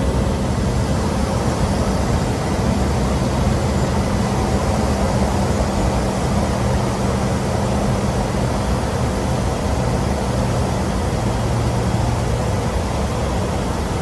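Steady drone of a Cessna Caravan's single turboprop engine heard from inside the cabin in flight: an even rushing noise over a low, steady hum.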